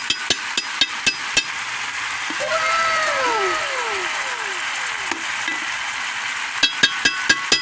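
Chicken deep-frying in a pot of hot oil: a steady sizzle. Over it come a quick run of sharp ringing clinks in the first second and a half and another about seven seconds in, with a few faint falling whistle-like tones near the middle.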